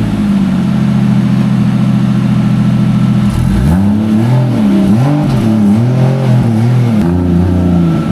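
Nissan S13 coupe's swapped Toyota 1JZ turbocharged straight-six held at a steady engine speed, then blipped in a run of quick, repeated revs, each rising and falling, from about three seconds in.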